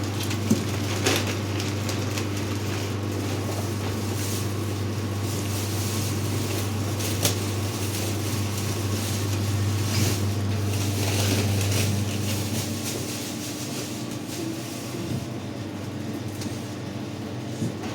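A steady low machine hum with scattered clicks and knocks; the hum drops away about two-thirds of the way through.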